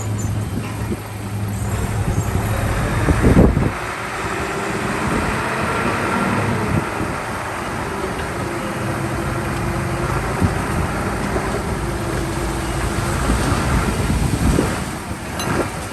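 Heavy diesel earthmoving machinery running and working, with a loud knock about three seconds in.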